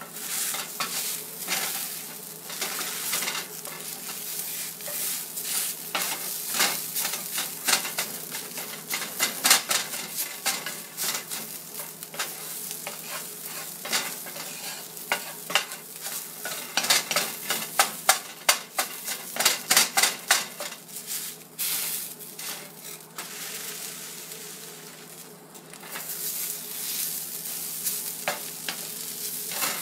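Canned tuna sizzling as it fries in a 19th-century gate-marked cast iron skillet. A utensil scrapes and taps against the pan as the tuna is stirred, in busy clusters of sharp clicks over the steady sizzle.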